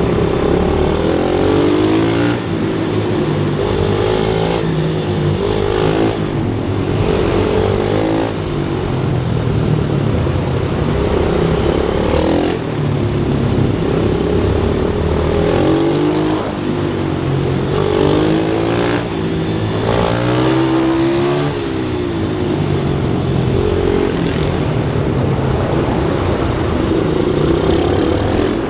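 Small motorcycle engines running hard on track, their pitch rising and dropping again and again as they rev up, shift and slow for corners, with more than one engine heard at once at times.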